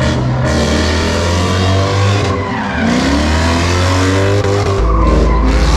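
A car doing a burnout or donuts: tires squealing and skidding over the engine's rising and falling revs. A heavy, bass-heavy music line plays underneath.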